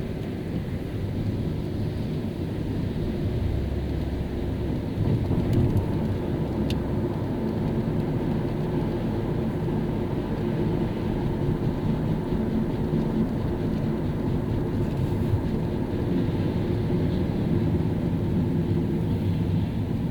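Car driving along a wet city road in the rain: a steady low rumble of road and engine noise with a faint hiss of tyres on wet tarmac.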